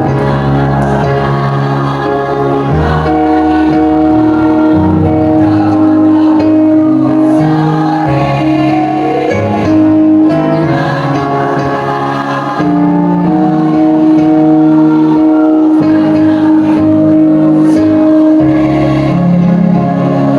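Choir singing with instrumental accompaniment: long held notes over a bass line that steps to a new note every second or two.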